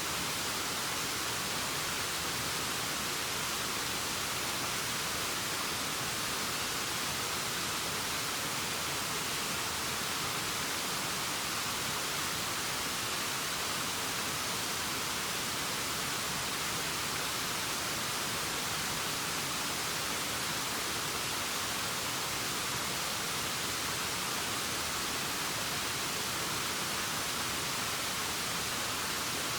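Steady, unchanging rushing hiss, a constant waterfall-like noise with most of its weight in the upper range and no rise or fall in level.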